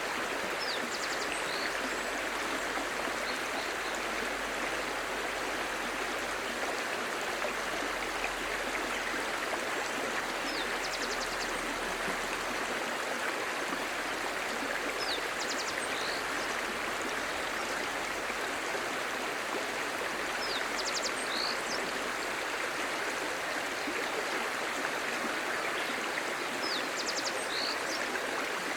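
Clear stream babbling: a steady, even rush of flowing water.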